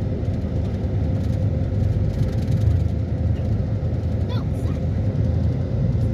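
Steady low rumble, with no clear rhythm or rise and fall.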